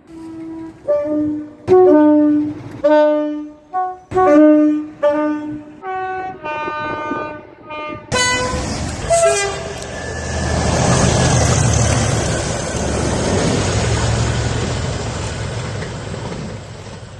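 A train horn sounding in a rapid series of short blasts at several different pitches, then a passing train's rumble and rush building to a peak and fading away.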